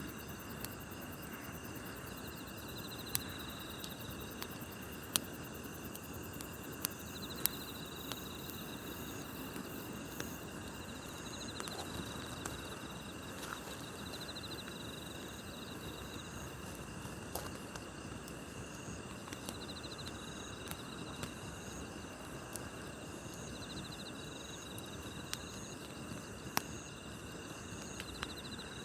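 A wood campfire burning with a low steady crackle and a few sharp pops, most of them in the first third and one near the end. Night insects keep up a chirping over it, in short trills repeated every second or two.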